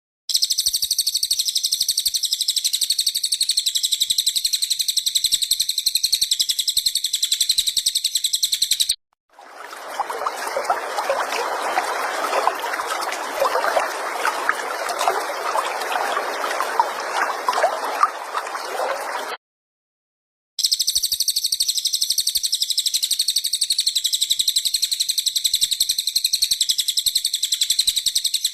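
Recorded cililin bird song: a high, rapid, evenly pulsed trill played in two long stretches. Between them comes about ten seconds of a lower, rough, gurgling sound, with short silent cuts on either side.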